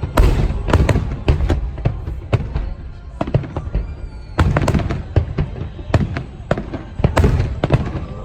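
Aerial fireworks bursting in rapid clusters of sharp bangs and crackles, several bursts close together, over a steady low rumble.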